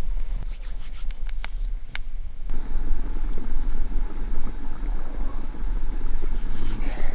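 Campfire crackling, with sharp pops. About two and a half seconds in it gives way abruptly to a steady low rumbling noise.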